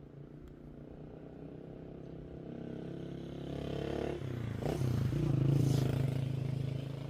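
A motor vehicle's engine approaching and passing, growing louder to a peak about five and a half seconds in and then fading, its pitch dipping briefly and recovering around four seconds in.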